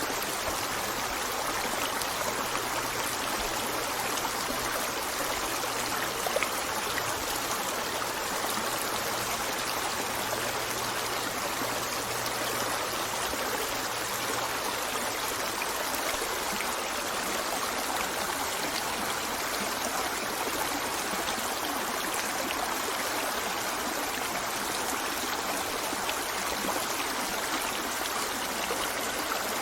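River water flowing steadily over stones, a continuous rushing with small trickles and splashes, and one slightly louder splash about six seconds in.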